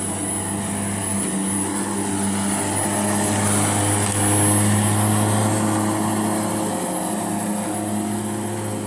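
Grass strimmer running steadily at full speed with a high whine over its motor hum, getting a little louder about halfway through.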